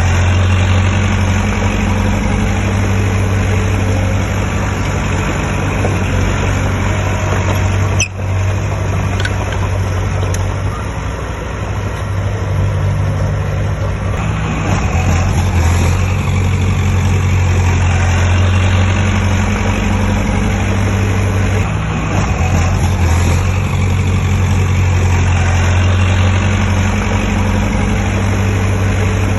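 Heavy diesel engine of construction machinery running steadily with a deep hum, the level rising and easing slightly in places. There is a brief sharp dropout about eight seconds in.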